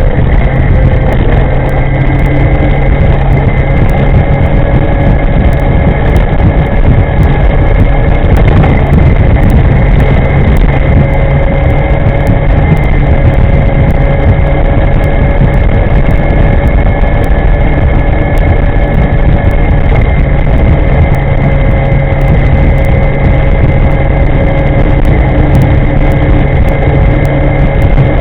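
Electric scooter riding at speed, wind buffeting the microphone, with a steady whine from the electric motor that creeps slightly higher in pitch.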